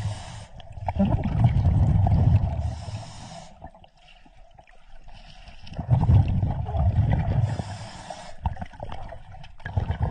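Scuba diver breathing through a regulator underwater: two long rounds of exhaled bubbles rumbling, with short hisses from the regulator between breaths.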